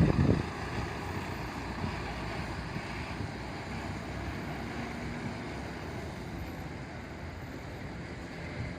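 Steady, even background noise of road traffic, after a louder vehicle sound dies away in the first half second.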